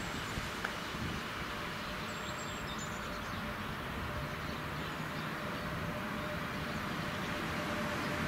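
Electric locomotive hauling a freight train, approaching along the line: a steady rumble and rail noise that slowly grows louder, with a thin steady whine coming in about halfway through.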